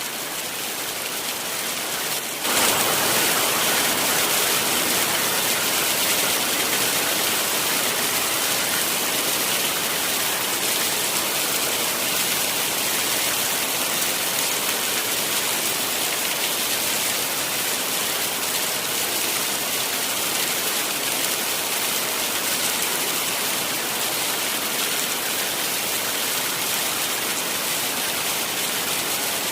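Heavy rain falling steadily, a dense, even hiss. About two and a half seconds in it jumps suddenly louder and then holds steady.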